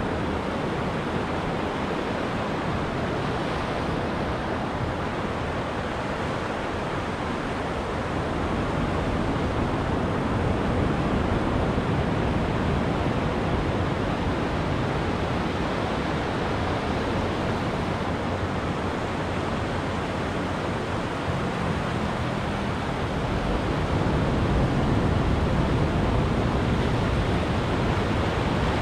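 Ocean surf washing onto a beach: a steady rush of waves that swells a little louder about a third of the way in and again near the end.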